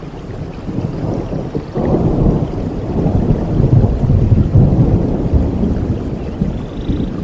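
A long low rumble of thunder that swells suddenly about two seconds in, is loudest around the middle, then slowly eases, over steady rain.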